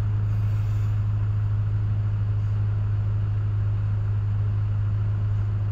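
Tata truck's diesel engine running steadily, a constant low hum with no change in pitch or level.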